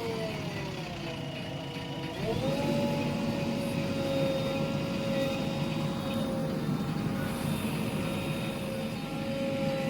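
JCB backhoe loader's diesel engine running. Its pitch sags over the first two seconds as if under load, then picks up quickly and holds steady.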